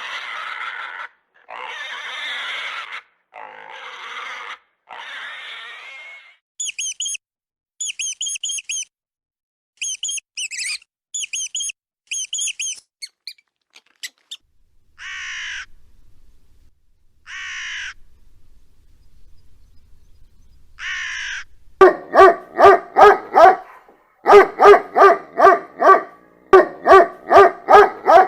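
A series of different animals' calls one after another: four harsh, noisy cries, then groups of rapid, very high squeaks, three separate calls falling in pitch, and finally loud, fast runs of repeated calls at about three or four a second.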